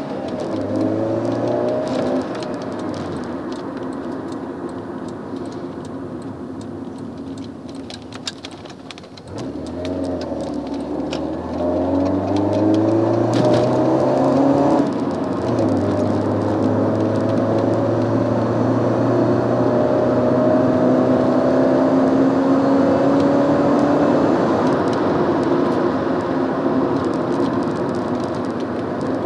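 Alfa Romeo 916 GTV Twin Spark 2.0 four-cylinder engine heard from inside the cabin on a drive, with road noise underneath. The engine note climbs and then drops several times as the car goes through the gears. It eases off around eight seconds in, builds again, and after about fifteen seconds pulls in one long, slowly rising note that falls away near the end.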